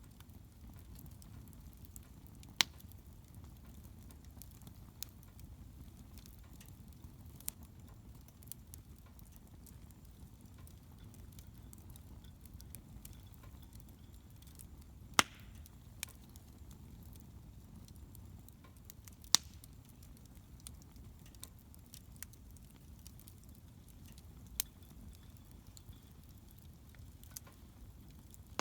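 Wood bonfire burning: a low steady rumble of flame with scattered sharp crackles and pops, three of them much louder than the rest.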